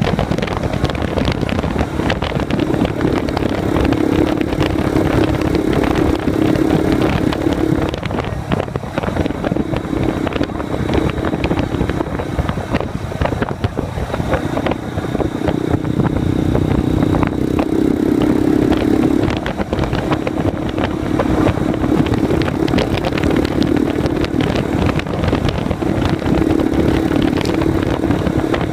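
Honda Grom's 125 cc single-cylinder engine running loudly through a baffle-less twin-outlet X-Speed exhaust, its note swelling and easing in stretches of a few seconds.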